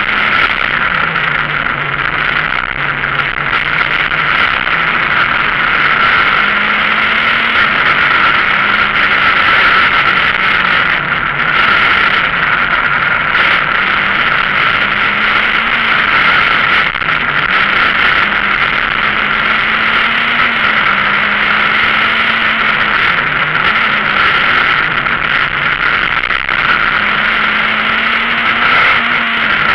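Citroën Saxo VTS rally car's four-cylinder engine heard from inside the cabin, driven hard, its pitch rising and falling again and again as it accelerates and slows through the bends.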